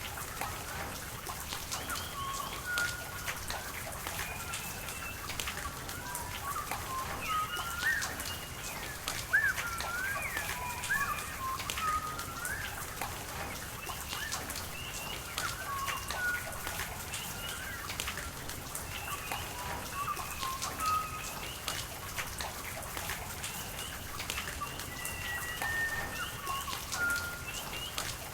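Birds calling throughout with many short whistled and chirping notes, over steady rain with individual drops ticking.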